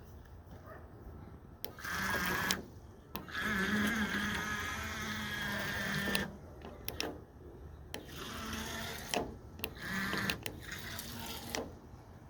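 Small electric motor of a radio-controlled boat whining in about five bursts as the throttle is worked on and off. The longest burst lasts about three seconds.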